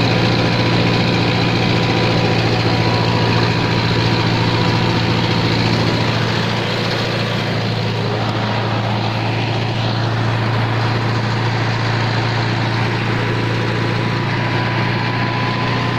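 Tractor engine running steadily with a low, even drone that eases slightly about six or seven seconds in.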